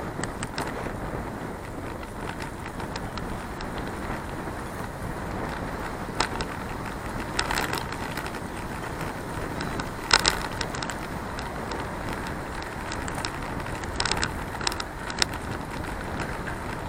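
Riding a bicycle: steady wind and road rumble on the camera's microphone, broken by sharp clicks and rattles a handful of times, the loudest about ten seconds in.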